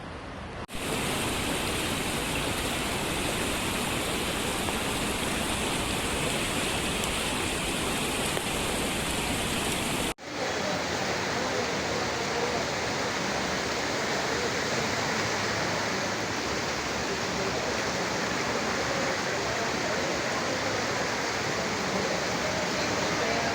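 Torrential rain and rushing floodwater make a steady, even roar of water, with a brief break about ten seconds in.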